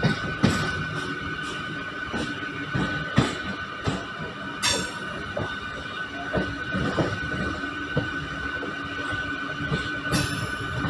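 MEMU electric train running on the line: irregular knocks and rattles from the wheels and coach over a steady whine. Two short hisses come about five seconds in and again near the end.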